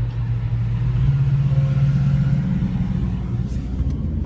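Car engine and road noise heard from inside a moving car's cabin, a steady low drone that rises a little in pitch and level about a second in, then eases off near the end.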